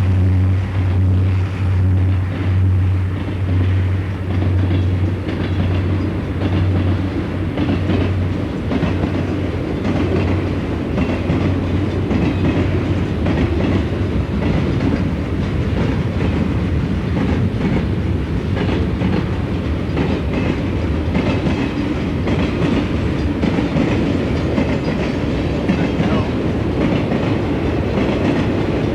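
Southern Pacific freight train rolling past: a low pulsing drone for the first several seconds, then the steady rumble and clickety-clack of freight car wheels over the rail joints.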